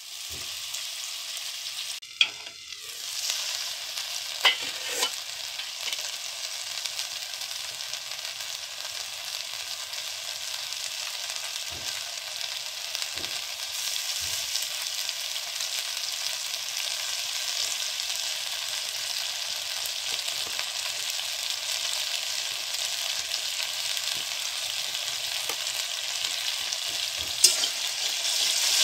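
Spice paste sizzling as it fries in oil in a steel kadai, a steady hiss throughout. A few scattered clicks and taps run through it, with a sharper click near the end.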